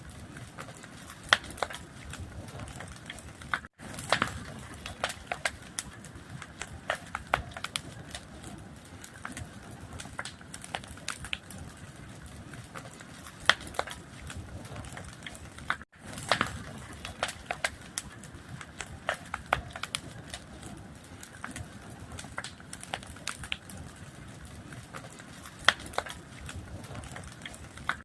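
Wood fire crackling: irregular sharp pops and snaps over a steady soft hiss. The sound cuts out completely for an instant about four seconds in and again about twelve seconds later.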